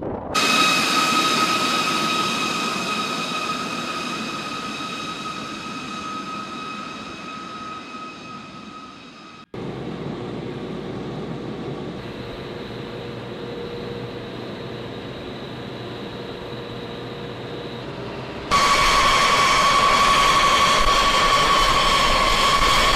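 Jet aircraft engines running with a steady high whine over a rushing roar, in three abruptly joined stretches. The first fades gradually, there is a brief dropout about a third of the way in, and a louder stretch begins suddenly near the end.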